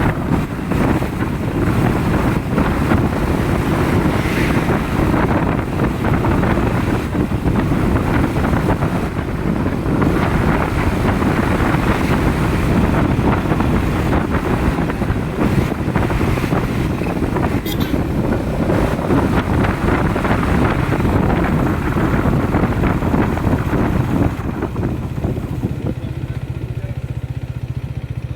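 Motorcycle running on the move, with wind buffeting the microphone. About 24 seconds in, the rushing wind drops and a steadier low engine note remains.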